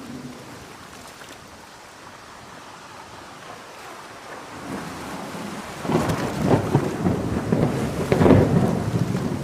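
Steady heavy rain, then a thunderclap that builds in as a low rumble about halfway through and breaks into loud crackling rolls near the end.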